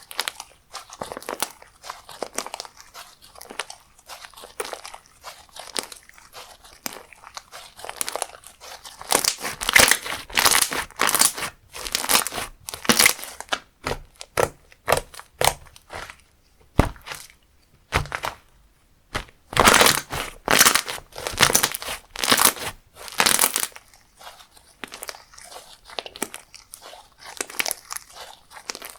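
Hands squishing, poking and stretching slime, making a run of crackling pops and clicks, in denser bursts about ten and twenty seconds in.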